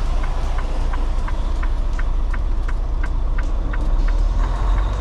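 Semi truck's diesel engine running, heard from inside the cab, with a steady light ticking about four times a second.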